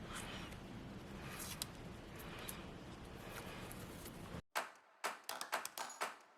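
Faint room tone with soft handling rustles and light clicks, then after an abrupt cut to silence about four seconds in, a quick string of sharp taps or clicks.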